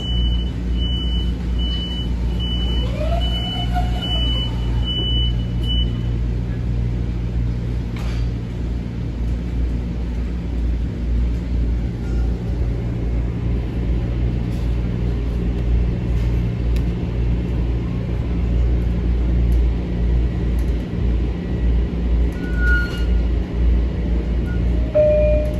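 Inside an M7 electric commuter train car: a steady low rumble and hum as the train runs along the track. For the first six seconds a high electronic beep repeats a little faster than once a second, then stops.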